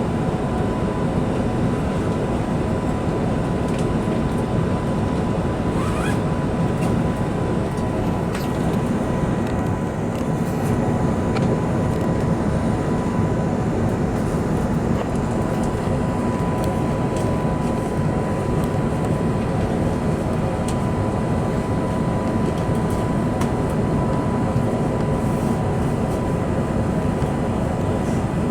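Steady cabin noise of an Airbus A380 in flight: a constant rush of air and engine noise, with a thin steady whine over it.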